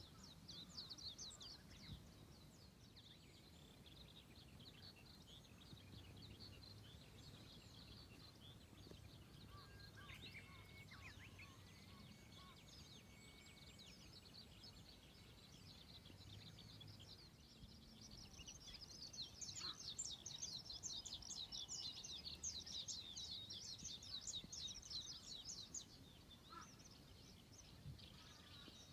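Birds singing and chirping: many quick high chirps throughout, growing denser and louder about two-thirds of the way in.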